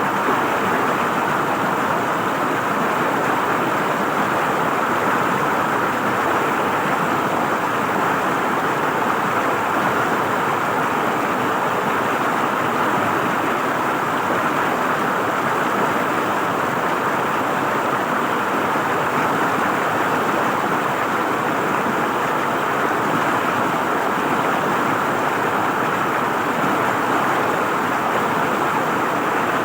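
River water flowing and gurgling over its bed, a steady rushing with no breaks.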